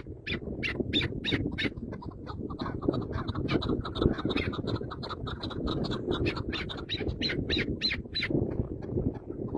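A bird squawking in a rapid run of short, harsh calls, several a second, over a low rustling noise.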